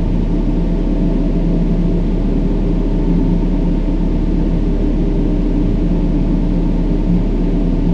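Steady brown noise: an even, deep rumbling hiss that is heaviest in the low end and thins out toward the treble, with a few faint steady low tones running through it.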